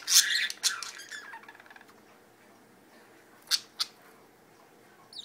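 Budgies squawking harshly in a loud burst for about a second, then quiet but for two short sharp chirps about three and a half seconds in and a brief chirp near the end.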